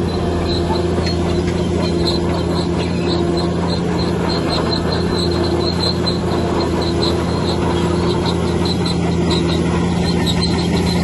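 Bulldozer's diesel engine running at a steady pitch, with its steel crawler tracks squeaking and clinking in a regular rhythm of about two to three squeaks a second as it moves.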